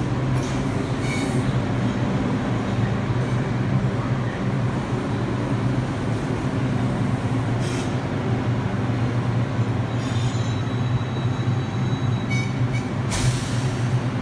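A New York City subway train at a terminal platform gives a steady low hum. Faint high squealing tones come partway through, and a short burst of hiss comes near the end.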